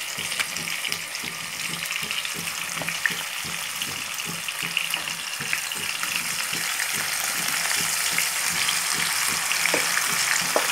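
Marinated chicken sizzling and crackling in hot oil and ghee in a frying pan as it is spooned in, the sizzle growing a little louder as more chicken goes in.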